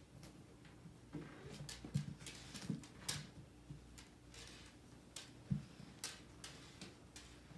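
A cat playing with a string, making scattered soft thumps and light clicks, with the sharpest thumps about two seconds and five and a half seconds in.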